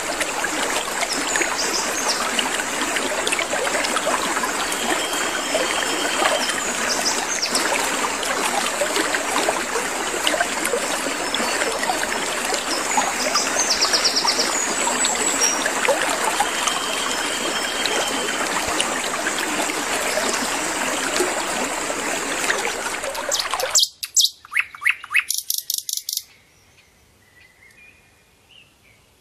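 Sikatan londo flycatcher song played as a masteran (training) recording, its notes mixed into a dense, steady hiss-like background. About 24 s in the background cuts off sharply, leaving a few loud rapid trills and then only faint calls.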